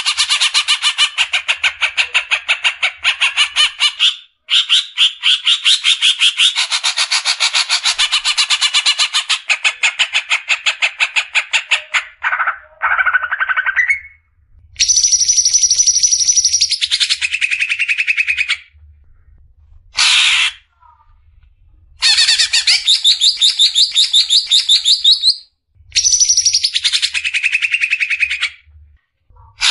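Cucak ijo (green leafbird) singing its rapid 'besetan' song: long runs of fast, evenly repeated notes several seconds long, broken by brief pauses and short sliding phrases.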